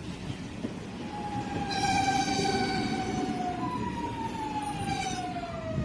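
Electric train pulling into a station, its traction motors whining as it brakes: the whine falls slowly in pitch, steps back up once about midway and falls again, over a low rumble of the wheels on the rails.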